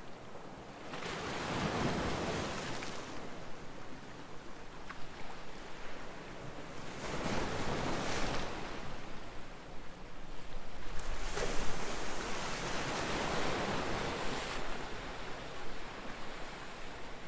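Ocean waves breaking and washing in: three surges of rushing surf, each swelling and then falling back, about four to five seconds apart.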